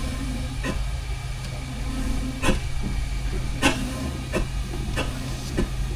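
Steam engine standing in steam, hissing over a steady low rumble, with a few sharp knocks at uneven intervals.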